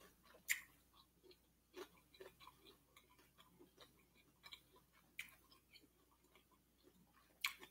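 Faint chewing of a mouthful of shrimp and rice: irregular soft wet clicks and smacks, with a few sharper clicks about half a second in and near the end.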